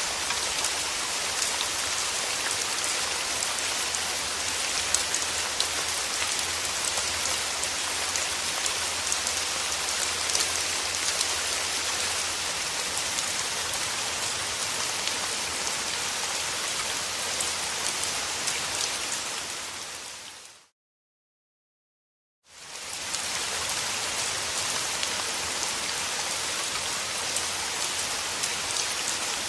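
Steady rain: a dense hiss of falling raindrops with fine patter. About two-thirds of the way through it fades out to silence for about two seconds, then fades back in.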